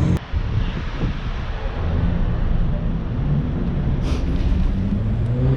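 A car's engine running as it drives off, its low note shifting in pitch, with wind rumbling on the microphone. The sound breaks off sharply a fraction of a second in and picks up again.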